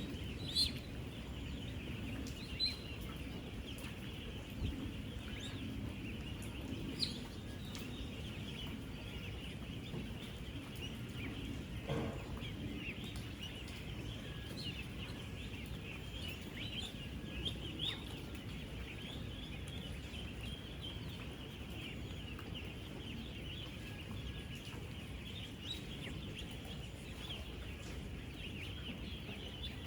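Dense chorus of thousands of ten-day-old ducklings peeping at once, a continuous high twittering with a few louder single peeps standing out, over a low steady rumble.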